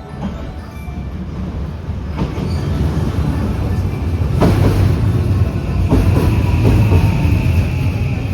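JR West 323 Series electric train accelerating away, its running noise growing louder, with wheels clicking over rail joints several times. A steady high whine from its Mitsubishi SiC MOSFET VVVF traction inverter joins about halfway through.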